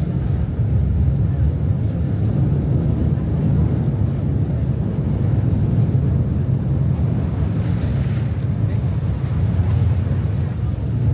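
Steady low rumble of wind buffeting the microphone, mixed with rushing water, as heard on board a moving boat.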